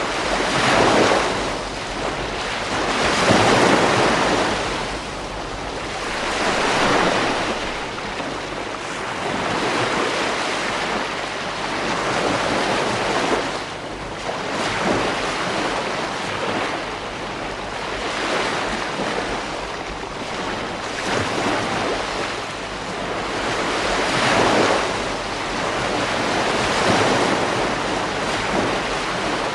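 Ocean waves breaking on a beach: a continuous rush of surf that swells and eases every few seconds.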